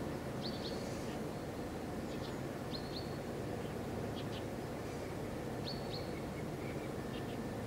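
A small bird calling: short high chirps, often in pairs, every second or two, over a steady low outdoor background rumble.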